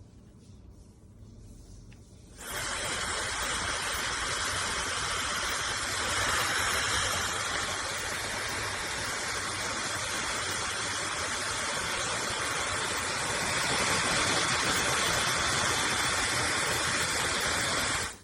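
High-speed hair dryer switched on about two and a half seconds in, blowing with a steady rush of air and a faint high motor whine, then switched off just before the end.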